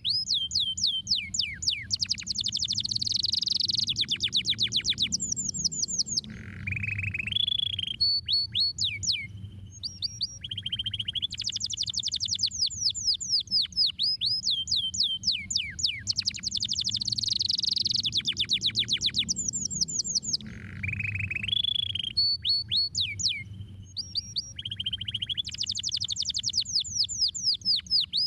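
Domestic canary singing: fast trills of quick downward-sweeping whistled notes, broken by short rolls and brief pauses. The same song passage comes round again about halfway through, over a low steady hum.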